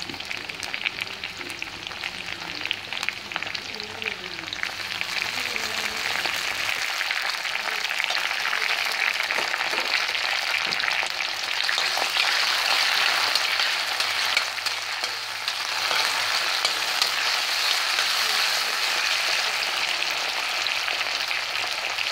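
Chopped tomato and sliced onion sizzling in hot oil in a kadai, stirred with a metal spatula that scrapes and clicks against the pan. The sizzle gets louder about five seconds in and stays steady after that.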